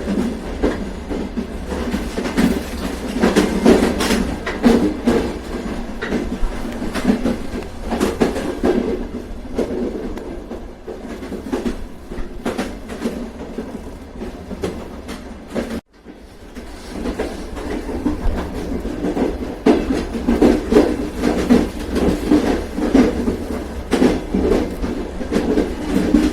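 A train running on the rails: a steady low rumble with the wheels clacking over rail joints. The sound cuts out for a moment about sixteen seconds in, then carries on.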